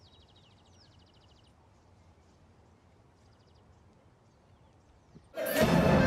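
Quiet outdoor meadow ambience with a small bird giving rapid trills and short falling chirps. About five seconds in, loud music with singing cuts in abruptly.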